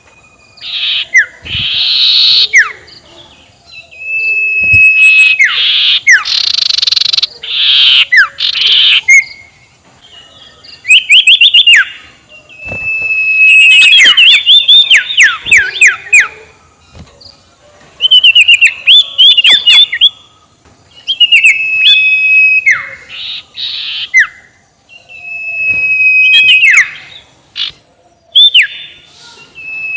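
Small owl (sirtu) calling in a cackling series: harsh hissing screeches alternate with a held whistle that breaks into a quick run of steeply falling notes, repeated again and again. This is the calls' use as a lure ('pancingan') to provoke a rival owl.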